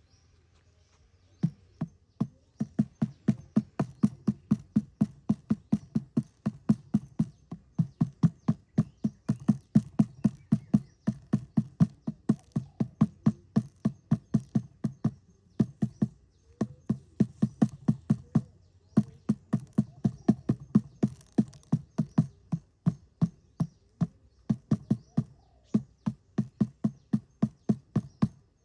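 Rapid, regular knocking, about three to four strokes a second, starting about a second and a half in, with two short breaks partway through.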